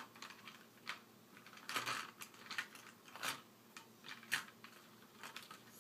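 Small plastic toy vehicles clicking and knocking against each other and a hard surface, about half a dozen irregular taps.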